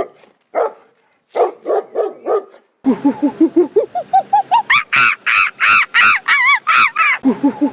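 A dog barking in two quick runs of short barks. A couple of seconds in, this gives way suddenly to a different animal call, repeated about four to five times a second and climbing steadily in pitch.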